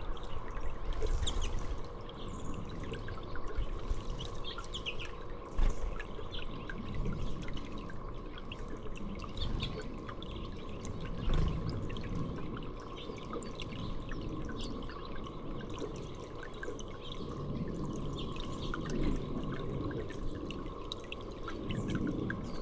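Water trickling and dripping steadily, with scattered short bird chirps.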